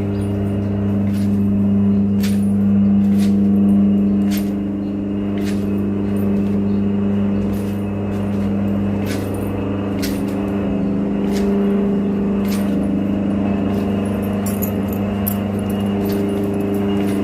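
A motor vehicle's engine running at a steady speed, with a hum that holds the same pitch and scattered sharp clicks or rattles.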